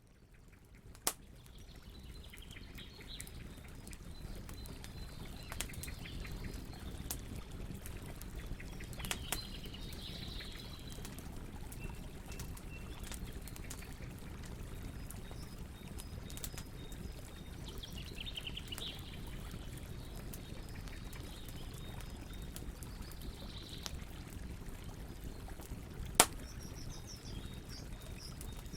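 Wood fire crackling with scattered sharp pops, the loudest about a second in and near the end, over a steady low rush of flowing water. Small birds chirp in short bursts throughout. The sound fades in over the first few seconds.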